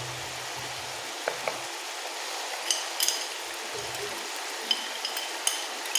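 Potato and tomato masala sizzling steadily in a large aluminium cooking pot, with several sharp metallic clinks of a utensil on metal.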